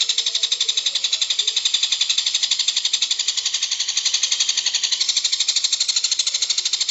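A songbird's fast, high-pitched rattling trill, about ten notes a second, running on without a break.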